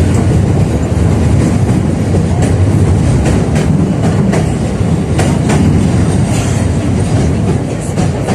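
71-605A (KTM-5A) tram running along the line, heard from inside the car: a steady low rumble with scattered sharp clicks as the wheels pass over rail joints.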